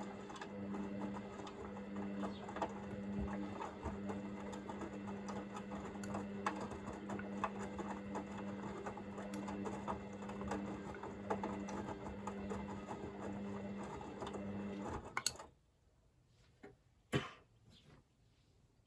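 Hoover VisionDynamic washing machine in its heat-to-40 °C wash phase: the drum motor hums steadily while the load tumbles with a scatter of small clicks, then the drum stops abruptly about 15 seconds in. Two short clicks follow in the quiet.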